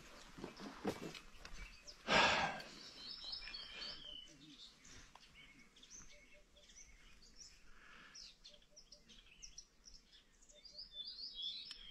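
Small birds chirping and calling in woodland, short high notes scattered throughout and thickest near the start and again near the end. About two seconds in comes a single brief, loud noise.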